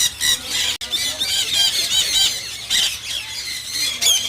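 Many parrots squawking and screeching at once, a dense, continuous chatter of short, harsh, high-pitched calls.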